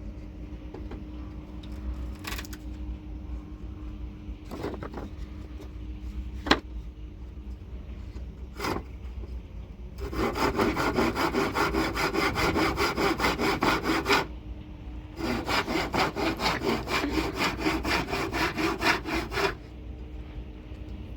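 Wood being sawn with a hand saw in two bouts of quick, even strokes, starting about halfway in with a short pause between them. Before that there are a few scattered knocks.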